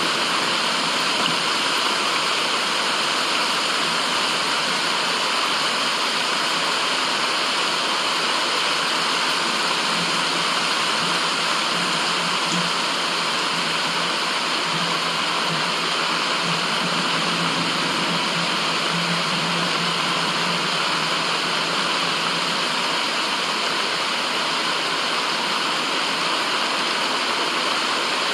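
Steady white-noise rushing, even and unchanging throughout, with the character of flowing water.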